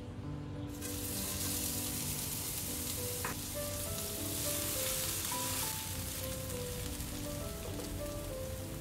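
Chopped garlic and chillies sizzling in hot oil in a non-stick frying pan. The sizzle starts about a second in as they hit the oil, then holds steady while they are stirred with a silicone spatula.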